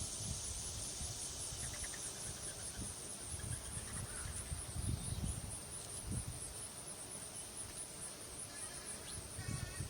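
Steady high-pitched insect trilling, pulsing rapidly without a break, with a few faint short bird chirps and a low wind rumble on the microphone.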